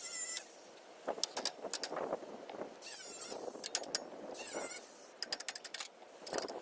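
Ratchet wrench working a tight, rusty fastener in repeated strokes: a short metal squeal on each turning stroke, and a quick run of ratchet clicks on the return, about a second and a quarter in and again about five seconds in.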